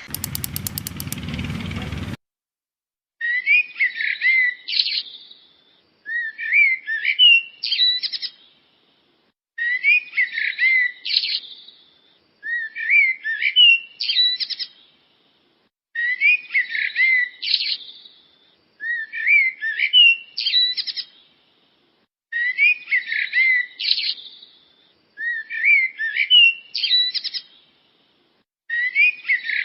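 A songbird singing the same short phrase of quick rising and falling whistled notes over and over, about once every three seconds, with silence between phrases. A brief burst of noise comes first, in the opening two seconds.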